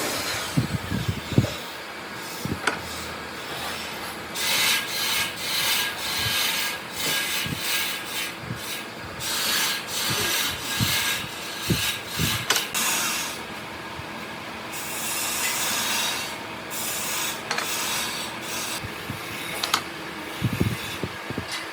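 Wood being worked by hand with rasping, rubbing strokes, about one a second through the middle, with a few sharp knocks near the start and again near the end.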